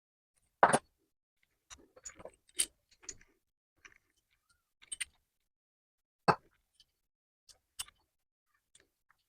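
Scattered clicks and knocks of metal parts and tools being handled at a workbench, with two louder knocks, one about a second in and one past six seconds.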